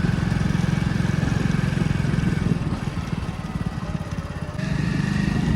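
Heavy diesel engine running with a steady low throb; it eases off for a couple of seconds midway, then picks up again near the end.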